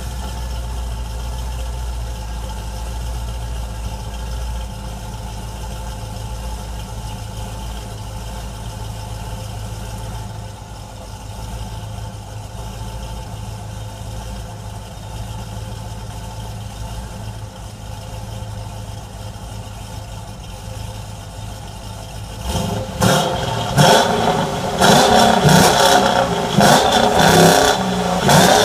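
Pontiac G8 GT's 6.0-litre V8, breathing through long-tube headers, an X-pipe and stock mufflers, idling steadily, then revved in several short, sharp blips from about 22 seconds in.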